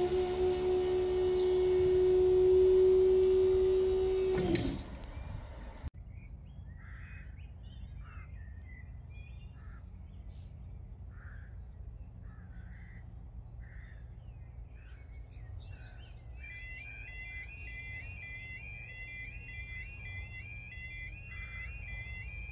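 A train passing close by over the level crossing, loud with a steady tone in it, cuts off about four and a half seconds in. Birds chirp over quiet outdoor background. From about two-thirds in, the crossing's warning alarm begins its repeating two-tone warble.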